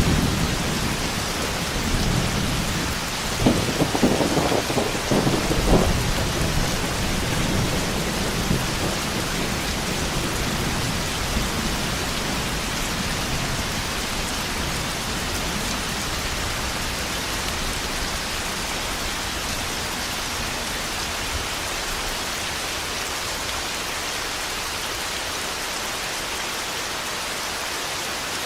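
Thunderstorm: steady rain falling, with thunder rumbling and cracking loudly over the first several seconds, then dying away to leave only the rain.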